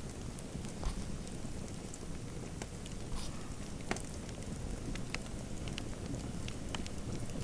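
Fireplace fire crackling: a steady low hiss and rumble with sharp pops and snaps at irregular intervals.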